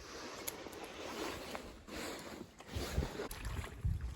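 Water splashing and sloshing around a kayak under paddle. In the second half, low rumbling gusts of wind buffet the microphone.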